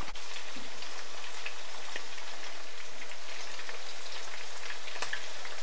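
Chilli-coated prawns shallow-frying in hot oil in a pan: a steady sizzle with fine, rapid crackling.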